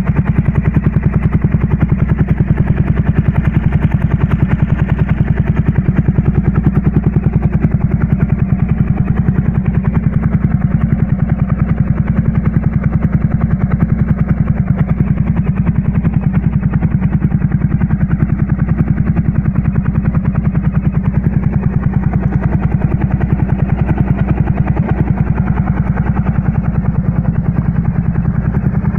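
Motorcycle engine idling steadily, a fast even pulse that holds the same pitch throughout.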